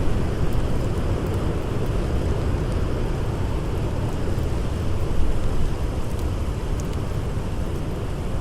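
Blizzard wind blowing in a steady, low rush of noise, with a campfire crackling faintly in a few small ticks.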